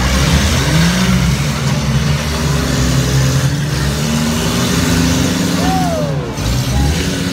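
Several compact demolition-derby cars' engines running and revving together, their pitches rising and falling as the cars drive and push in the arena, with crowd voices underneath.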